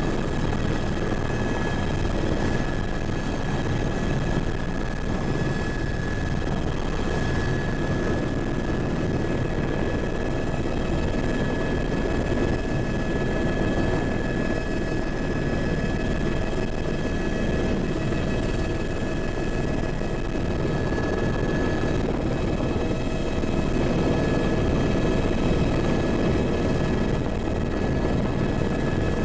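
Helicopter running steadily: a dense, unbroken rotor and engine rumble with a steady high whine over it.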